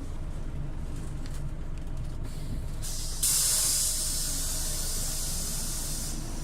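Scania OmniLink city bus's engine running low, with a sudden loud blast of compressed air from its pneumatic system about three seconds in that hisses and fades over roughly three seconds.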